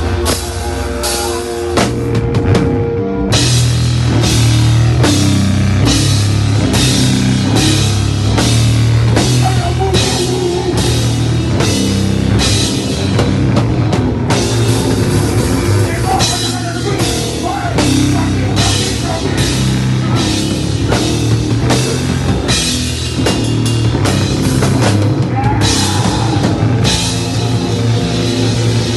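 Live heavy rock band playing loudly, recorded raw: drum kit with steady cymbal and drum strokes over low, sustained guitar and bass. About two seconds in there is a short break, then the full band comes back in.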